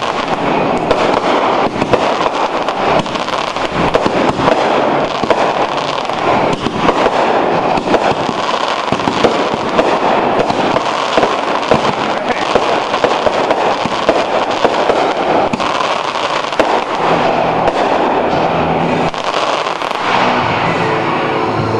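Fireworks display going off in a dense, continuous crackle of rapid pops and bangs.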